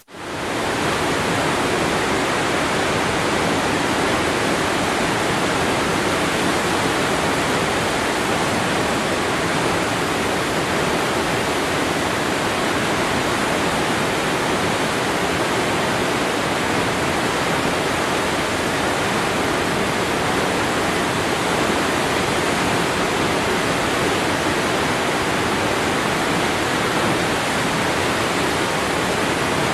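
Waterfall: a steady, full rush of falling water with no change in level. It drops out for an instant right at the start and fades back in within about half a second.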